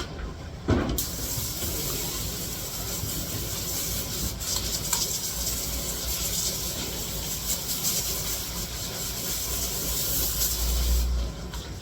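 Water running hard from a tap or spray nozzle, a steady hiss that starts just after a knock about a second in and cuts off suddenly near the end.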